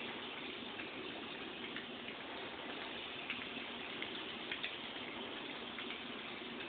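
Toy train running on its track on a table: a steady rushing noise with scattered light clicks.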